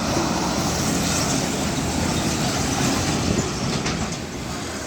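Heavy diesel truck driving past, its engine and rolling road noise loud and steady, easing off a little near the end.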